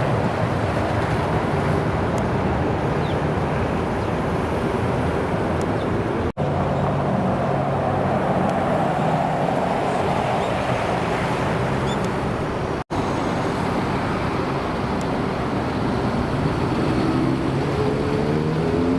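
American car engines running, heard in three stretches separated by two brief dropouts. Near the end an engine's pitch rises steadily as it accelerates.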